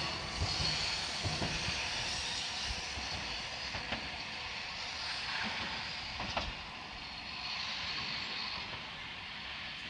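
Randen tram running away, its rumble fading steadily, with a few sharp wheel clicks on the rail.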